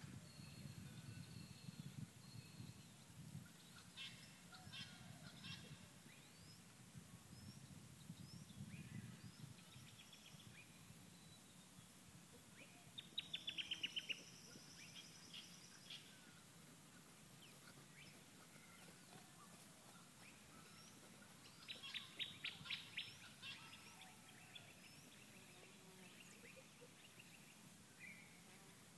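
Faint wild birdsong: scattered chirps, with two quick runs of rapidly repeated notes, one about halfway through and another about three-quarters through.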